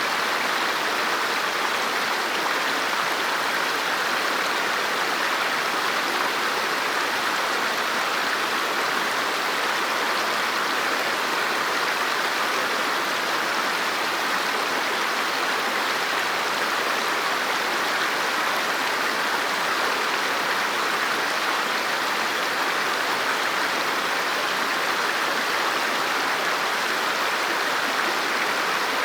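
River water flowing steadily over rocks, a constant rushing wash with no change.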